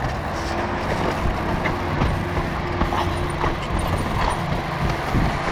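Mountain bike riding over a rough, wet trail: a steady low rumble of riding noise with the clatter of the bike over the ground. A thin steady tone sounds for about three seconds near the start.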